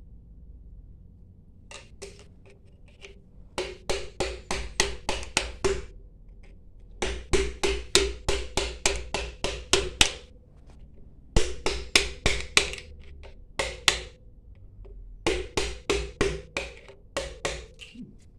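Quick hammer taps on metal pump parts, about four to five strikes a second, in several bursts with short pauses between them. Each strike is sharp with a short metallic ring.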